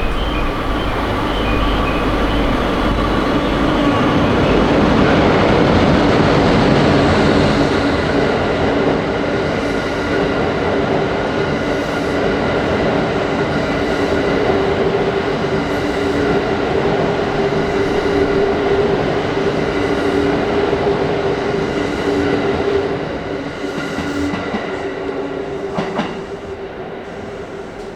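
Train running past on rails: dense, steady running noise with sustained humming tones and light clicks every couple of seconds, fading away over the last few seconds.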